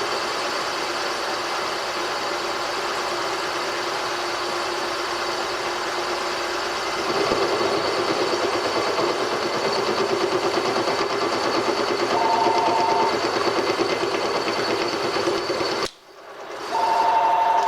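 A workshop machine runs steadily, growing louder and rougher about seven seconds in, then cuts off abruptly near the end. A short two-note electronic tone sounds once during the running and again just after the cut.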